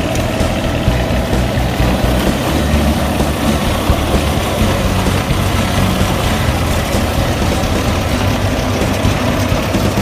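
Engine of a GreenMech QuadTrak 160 tracked wood chipper running steadily.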